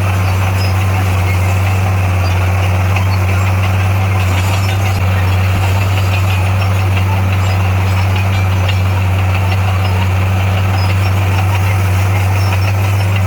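Heavy diesel engine of a bulldozer running steadily with a deep, even hum.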